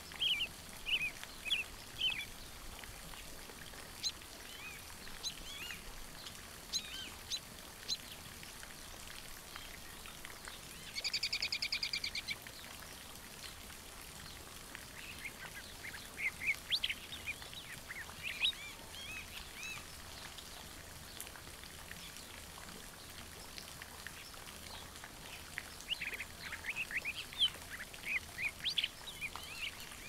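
Birds chirping in short high bursts, clustered near the start, around the middle and near the end. About eleven seconds in, a loud buzzy rattling call lasts just over a second.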